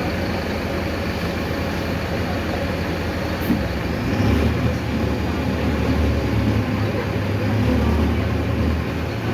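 Mercedes-Benz OF-1519 city bus under way, its diesel engine running with steady road rumble. A short click comes about three and a half seconds in, and just after it the low engine drone grows louder and stays louder.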